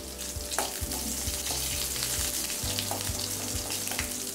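Crushed garlic and curry leaves sizzling in hot sesame oil in a metal kadai, with a metal spoon stirring and scraping across the pan and a few sharp clicks of spoon on metal.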